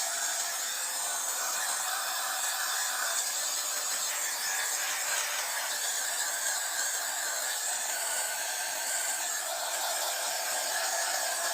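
Steady hissing static from the speaker of a vintage Sanyo M9802AK radio cassette player, thin and without bass.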